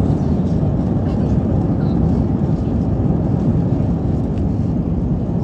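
Airbus A320-200 cabin noise during takeoff: a steady, loud, low rumble of the jet engines and airflow, heard from inside the cabin.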